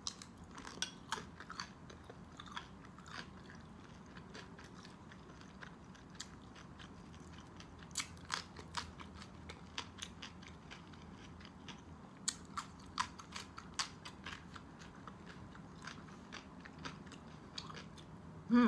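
A person chewing crispy baked pork and raw vegetables such as cucumber, close to the microphone, with irregular sharp crunches and mouth clicks.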